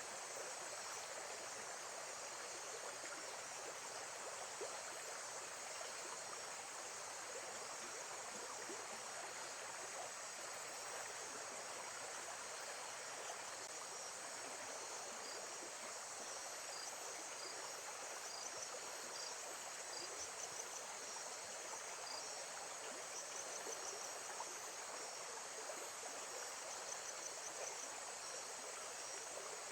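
Lakeside nature ambience: a steady hiss of running water with crickets chirring high above it, and a few faint short chirps scattered through.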